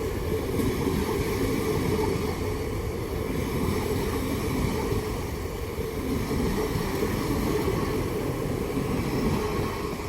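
LNER Class 801 Azuma electric train pulling away, a steady low rumble of wheels and running gear on the rails that eases off near the end.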